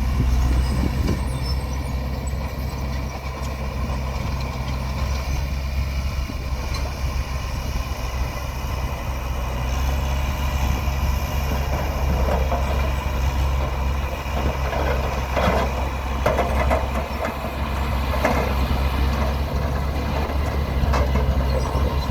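Diesel dump truck engine running steadily with a low, even drone. Scattered knocks and rattles come in the second half.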